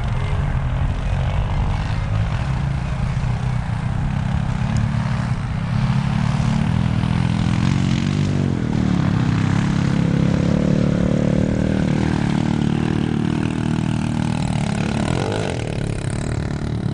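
Small dirt-bike engine running under throttle. Its pitch climbs from about halfway through and drops away sharply near the end.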